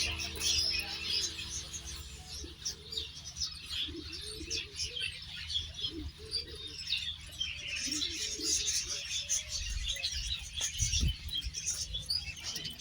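Many birds chirping continuously, with doves giving short low coos through the middle; a single low thump near the end.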